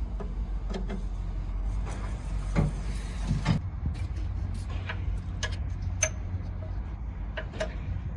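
Workshop work on a diesel engine: irregular sharp clinks and knocks of metal tools and parts over a steady low hum. One clink, about six seconds in, rings briefly.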